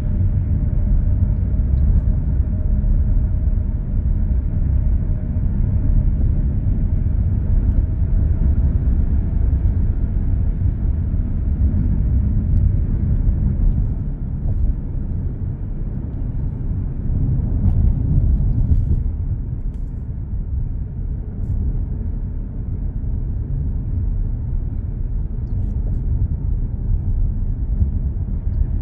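Steady low road rumble of a car cruising on an expressway, heard from inside the cabin: tyre and engine noise, with a faint hum that fades out around the middle.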